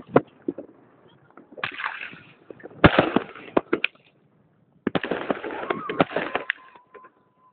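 Fireworks going off: clusters of sharp bangs and crackles in several bursts with short lulls between them. A steady high tone comes in about six seconds in and holds.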